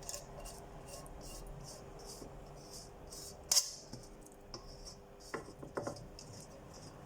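Quiet, soft scrapes and clicks of a utensil and containers as chilled stock is transferred from a tub into a pot, with one sharper knock about three and a half seconds in and a few light taps near the end.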